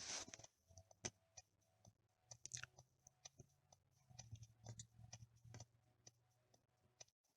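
Near silence: faint scattered clicks over a faint low hum.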